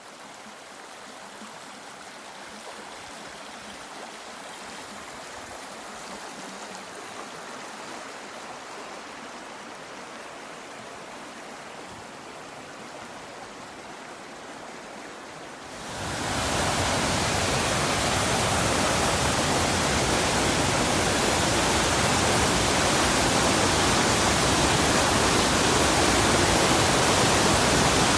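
Fast-flowing river rushing steadily. A little past halfway it suddenly becomes much louder and fuller, and it stays that way.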